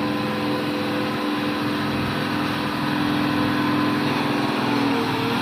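Heavy truck's diesel engine running steadily under load, with its pitch dipping briefly near the end.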